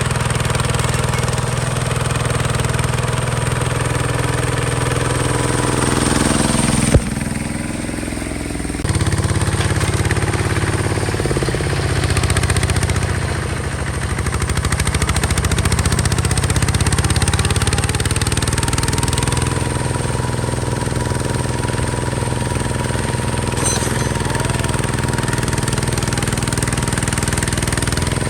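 Hinota HG Gold 155 DI tractor's diesel engine running steadily, with a sharp knock about seven seconds in and a dip for about two seconds before the engine note picks up again.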